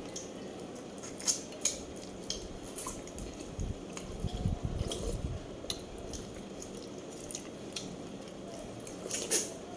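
Eating at a table close to the microphone: scattered light clicks and clinks of utensils against dishes, with a brief low rumble around the middle.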